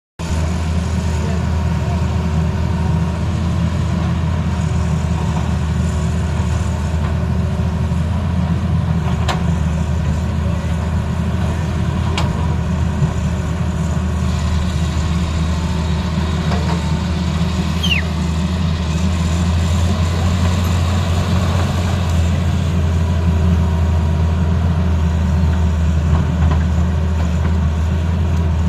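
Tata Hitachi excavator's diesel engine running steadily with a deep, even drone. There are a few faint knocks, and a brief high squeak that falls in pitch partway through.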